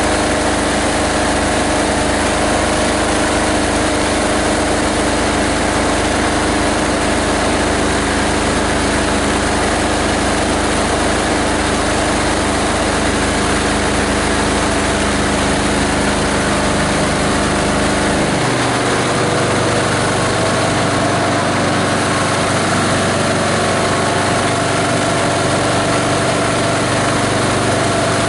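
The 18 HP diesel engine of a multi-blade plastic grinder running steadily. About two-thirds of the way through, its low hum shifts abruptly to a different pitch, a change in engine speed or load.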